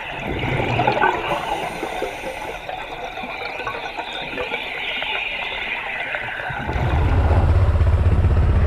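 Water gurgling and sloshing around the microphone, with scattered crackles. About seven seconds in, a steady low rumble starts and becomes the loudest sound.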